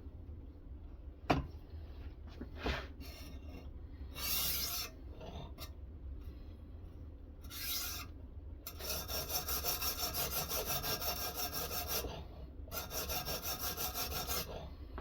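Sharpening stone on a guided knife-sharpening system, stroked quickly back and forth along a knife edge: two runs of fast, even scraping strokes about five a second, with a short pause between. Before them come a sharp click and a few short single scrapes.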